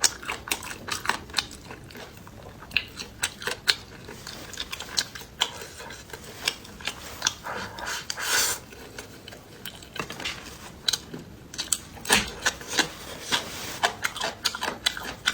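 A person eating close to the microphone: chewing and crunching, with many irregular sharp crackles and clicks and a longer rasping scrape about eight seconds in.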